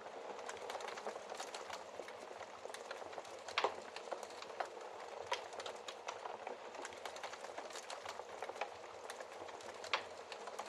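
Wood fire crackling: a steady hiss dotted with frequent small pops, and two louder pops, one about three and a half seconds in and one near the end.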